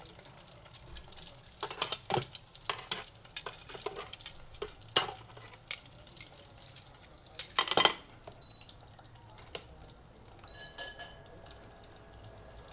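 Kitchen utensils clinking and scraping against pots and dishes in irregular knocks while cooking, the loudest clatter a little past halfway, over a low frying hiss.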